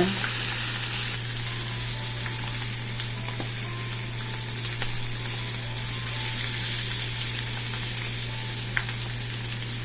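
Marinated quail deep-frying in hot oil in a pan: a steady sizzle with small crackles and pops.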